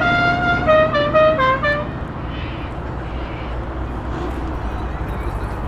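A car's musical horn playing a short tune of stepped notes, stopping about two seconds in, over the low rumble of car engines, which goes on after the tune ends.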